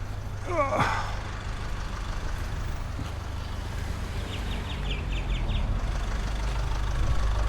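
Vehicle engine idling with a steady low hum. A brief falling-pitch sound comes about half a second in, and a quick run of short high ticks between about four and six seconds.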